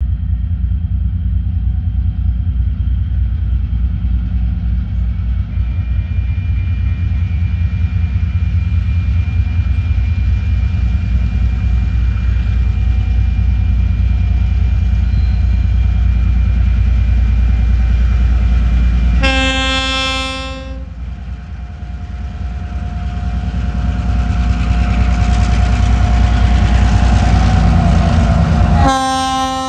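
Diesel locomotives of a TasRail train, led by DQ 2009, running loudly with a steady low engine rumble as they approach. The lead locomotive's horn sounds twice: a blast of about a second and a half about two-thirds of the way in, and a second blast starting near the end.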